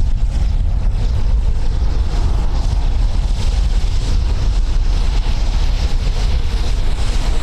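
Steady rumbling noise with wind buffeting the microphone.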